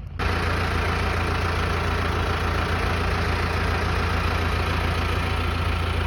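Tractor engine running loud and steady at an even speed, deep and rumbling; it comes in suddenly just after the start and cuts off at the end.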